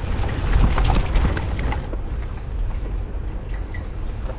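Third-generation Toyota 4Runner driving down a rough, rocky dirt trail: a low rumble of engine and tyres with frequent knocks and rattles, busiest over the first two seconds and easing after.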